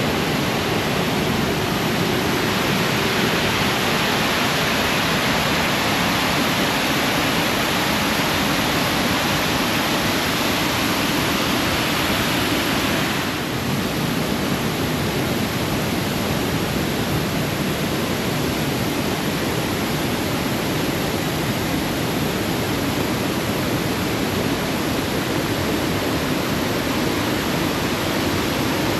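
Waterfall rushing steadily, a loud, even wash of falling water that changes slightly in tone about halfway through.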